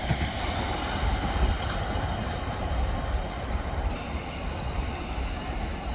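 Electric multiple-unit passenger train running through the station with a steady rumble of wheels on track. A faint high whine joins about four seconds in.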